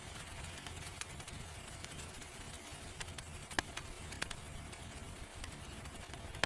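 Faint steady hiss with scattered light ticks and clicks, one a little louder about three and a half seconds in.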